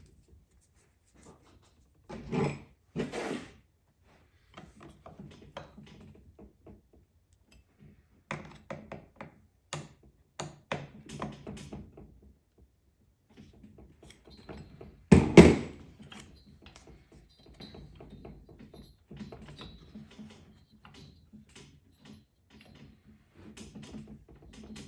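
Clicks, taps and knocks of hands and tools working on a Stihl 039 chainsaw's ignition coil and flywheel while the coil gap is set. There are two knocks about two and three seconds in and one loud thunk about 15 seconds in.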